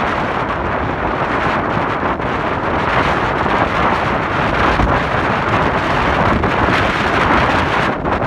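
Steady, loud wind rush buffeting the microphone of a moving motorcycle, with road and engine noise blended underneath.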